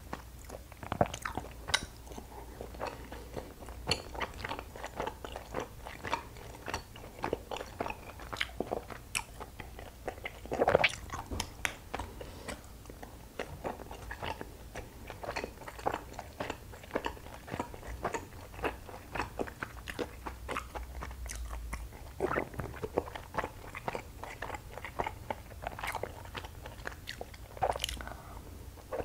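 Close-miked chewing of soft, sticky Korean rice cakes (tteok): a steady run of short, wet mouth clicks and smacks.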